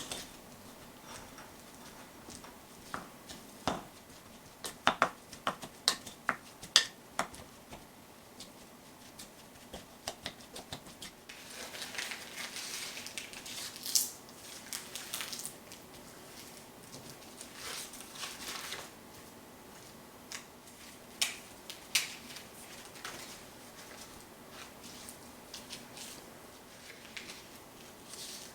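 Kitchen prep handling sounds: scattered light taps and clicks of utensils, with a few seconds of continuous rubbing noise around the middle.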